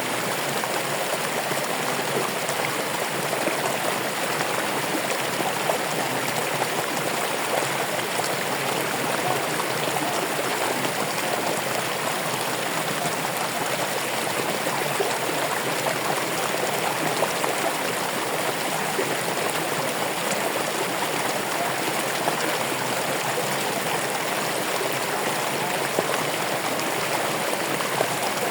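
Running water flowing steadily in an even, continuous rush, with no breaks or changes.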